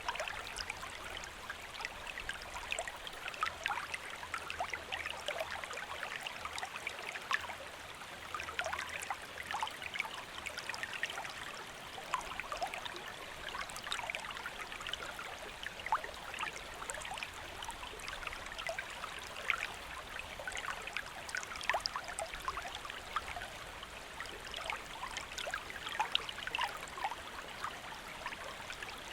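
A shallow stream flowing steadily, with a constant trickle and many small, quick splashes and plinks of water running over stones.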